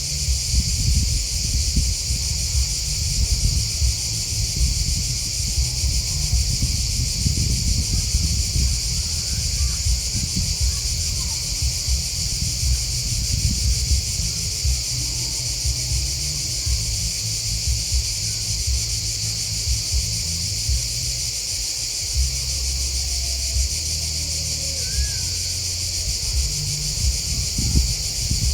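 A steady, unbroken chorus of chirping grasshoppers and crickets, with a low uneven rumble underneath.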